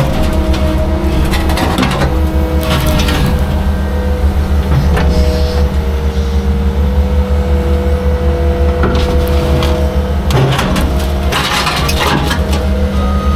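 Heavy equipment's diesel engine running steadily, with scraping and knocking several times as concrete is broken out and moved.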